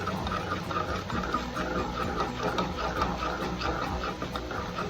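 A spoon stirring yeast and sugar into warm water, in quick even strokes at about three a second.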